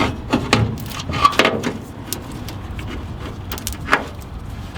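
Hands working at zip ties and a fuel line under a truck: a quick run of sharp plastic clicks and knocks in the first second and a half, then another click near the end, over a low steady rumble.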